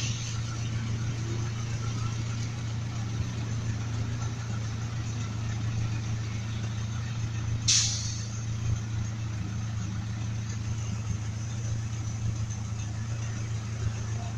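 Old pickup truck's engine idling steadily with a low, even hum, its idle now set down after running too high. A brief sharp sound cuts in once, about eight seconds in.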